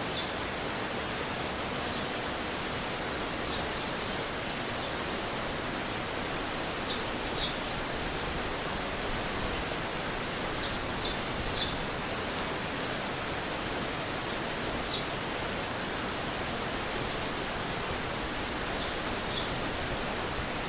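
A stream flowing steadily. Short high chirps come in twos and threes every few seconds.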